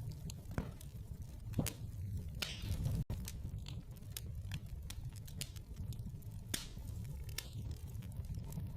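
Wood fire in a fireplace crackling, with irregular sharp pops and snaps over a steady low rumble of the flames. The sound cuts out for an instant about three seconds in.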